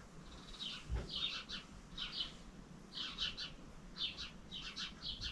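A bird chirping: short high chirps in quick twos and threes, repeating every second or so. A soft thump about a second in.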